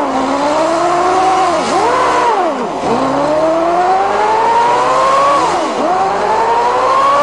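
Dune buggy's Yamaha 650 motorcycle engine being driven hard, its pitch climbing steadily and then dropping sharply, several times over, as it is revved up and let off.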